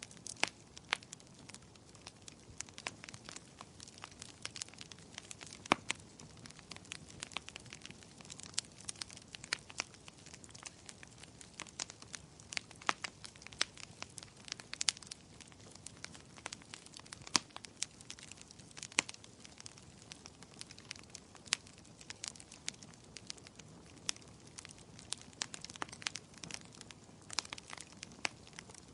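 Burning firewood crackling in a fireplace: irregular sharp pops and snaps over a soft steady rush of flames.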